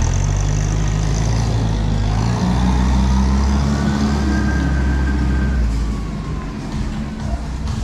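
A heavy vehicle's engine running loudly, climbing in pitch a couple of seconds in as it revs or pulls under load, with a faint rising whine above it.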